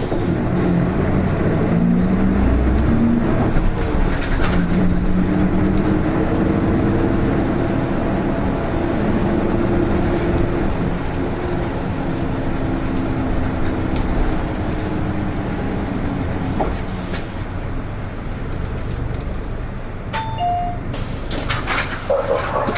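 A PKG-RA274MAN city bus's diesel engine heard from inside the cabin, running under way with its pitch rising and falling, then easing off and quieter. Its engine note differs from others of this bus type. Two short electronic tones sound near the end.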